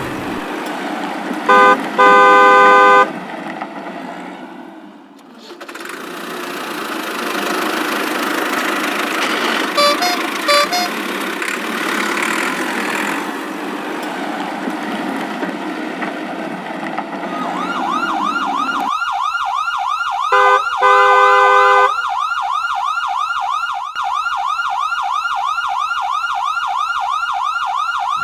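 Cartoon vehicle sound effects: an engine running, with short horn honks about two seconds in, then a fast-warbling siren that starts about two-thirds of the way through and runs on, interrupted by another honk.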